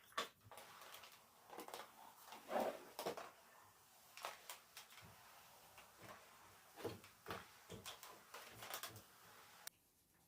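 Scattered light knocks and clicks of household things being handled, a few louder ones in between, cutting off abruptly near the end.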